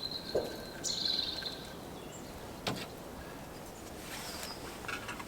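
A bird singing, a thin high whistled phrase with a short trill over the first second and a half, over woodland background noise; a single sharp knock comes about halfway through.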